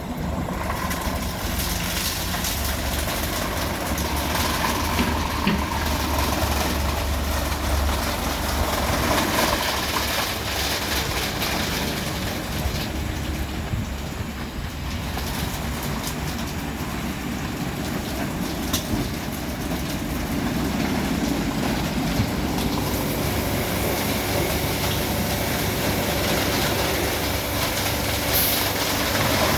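Christ Vitesse automatic rollover car wash running through its wash cycle: a steady, loud rush of machine noise over a low hum, with a few brief clicks and knocks.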